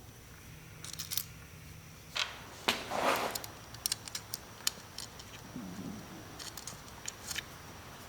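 Small metal parts and tools being handled: a scatter of light clicks and clinks, with a short scraping rub about three seconds in.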